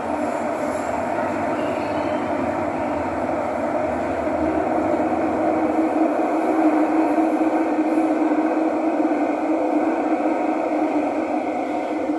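Thomson-East Coast Line metro train running between stations: a steady rumble of wheels and running gear with a humming tone that grows stronger about halfway through.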